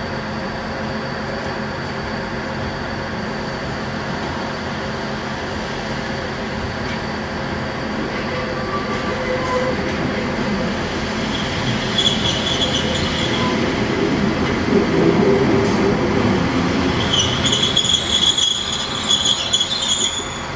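Pacer diesel railbus running slowly past, its engine growing louder as it nears. Its wheels squeal on the curving track twice in the second half, briefly and then for a few seconds near the end.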